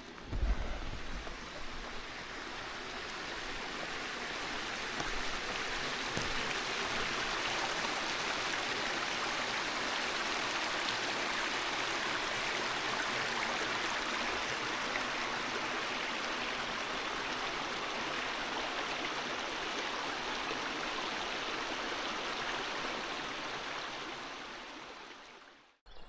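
Brook running over stones: a steady rush of water that builds over the first few seconds and fades away near the end. There is a brief low thump just after it starts.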